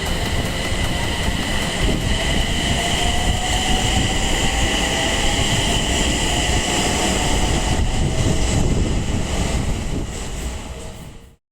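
Electric train running, likely an E721-series EMU, a steady rumble under a high-pitched whine. The sound fades near the end and then cuts off abruptly.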